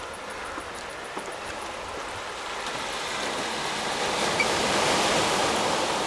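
Sea surf washing on the shore, swelling louder about four seconds in and easing off near the end.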